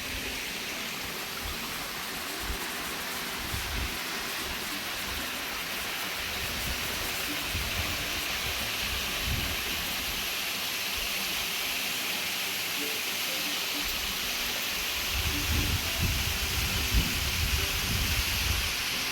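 Steady hiss of a waterfall splashing onto rocks, running with little water. Low rumbling blows come in about three-quarters of the way through.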